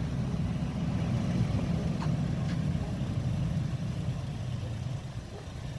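Garbage truck engine rumbling as the truck drives away, slowly fading.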